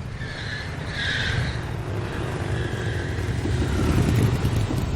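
Truck engine running with a low, steady rumble that slowly grows louder.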